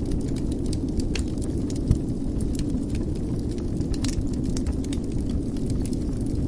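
Wood fire in a fireplace crackling: scattered small pops and snaps over a steady low rumble, with one sharper pop about two seconds in.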